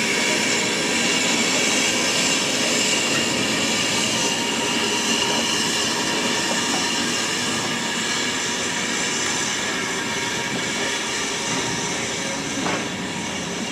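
Railway train rolling along the track, its wheels squealing on the rails in a steady high ringing that slowly fades, with a couple of brief knocks near the end.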